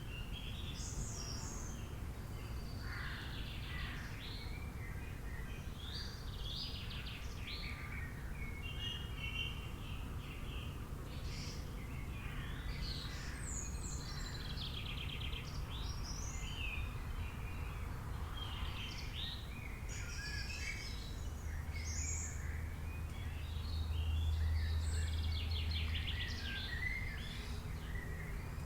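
Many birds chirping and trilling over a steady low outdoor rumble, with a deeper hum swelling for a few seconds in the last third.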